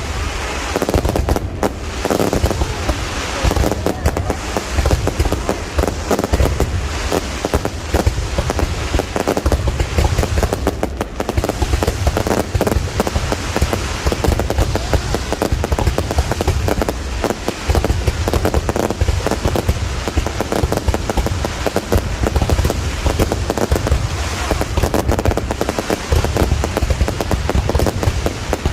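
Fireworks display: a dense, continuous barrage of bangs and crackles with deep booms underneath.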